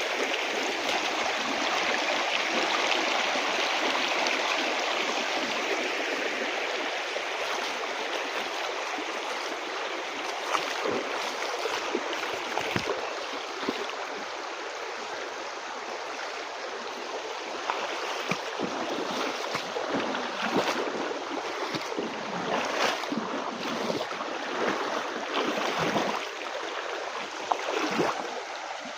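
Stream water running steadily. From about ten seconds in, irregular splashes and gurgles break the flow.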